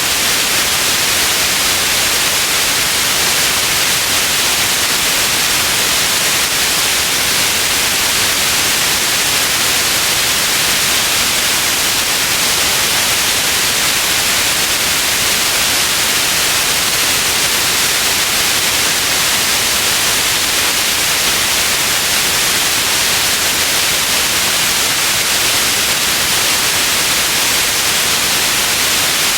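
Steady white noise: an even, unbroken hiss that is brightest in the high end, with no change in level.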